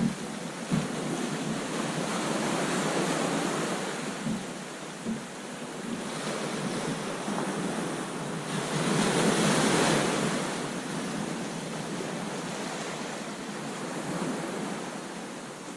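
Ocean surf washing onto a beach: a steady rush of breaking waves that swells to its loudest about nine seconds in as a wave breaks, then eases. Wind buffets the microphone, with a few brief knocks near the start.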